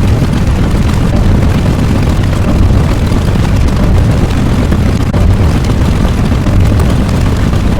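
A loud, steady low rumble, a continuous noisy roar like an engine or an eruption, with no distinct strokes or pitch changes.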